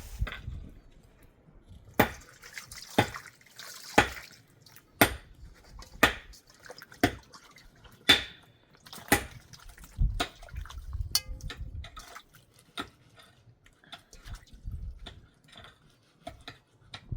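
A series of sharp, short taps at about one a second, becoming sparser and fainter in the second half, with a low rumble in between.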